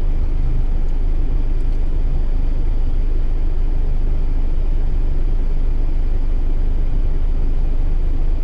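Steady low rumble of a Mitsubishi Triton's engine and drivetrain heard from inside the cab as the ute drives slowly off-road.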